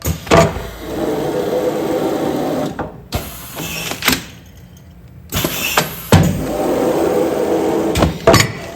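Automatic pneumatic container-sealing machine cycling in continuous operation: sharp clacks of its air cylinders and valves, each followed by about two seconds of steady mechanical running. The cycle repeats about every five seconds, twice here, with a brief lull in the middle.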